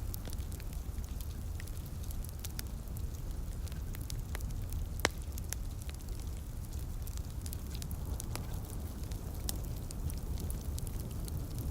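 Fire in a fireplace crackling, with irregular small pops and one sharper pop about five seconds in, over a steady low rumble and light rain.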